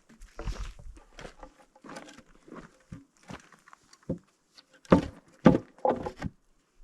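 Wooden framing lumber being handled and shifted: a run of irregular knocks and thuds of boards against each other, with the hardest knocks close together near the end.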